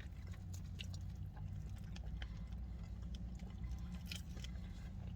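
A person chewing a mouthful of Arby's Diablo cheese fries (curly fries loaded with cheese, bacon, barbecue sauce and jalapeños), close to the microphone, with scattered small mouth clicks over a steady low hum.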